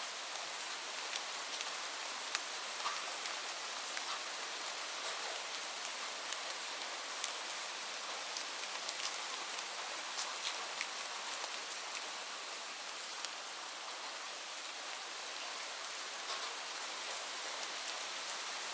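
Steady rain falling on leaves, an even hiss with many small scattered drop ticks.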